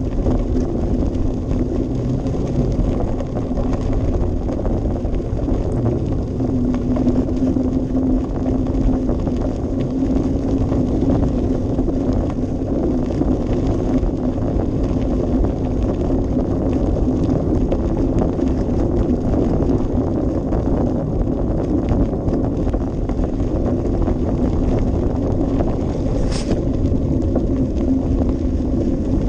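Bicycle riding along a path: steady tyre-rolling noise with a low hum and wind rumbling on the action camera's microphone. A brief high squeak near the end.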